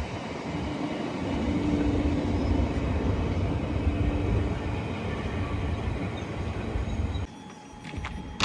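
A train running past with a steady rumble and a low hum. The sound cuts off abruptly about seven seconds in, leaving a few faint clicks.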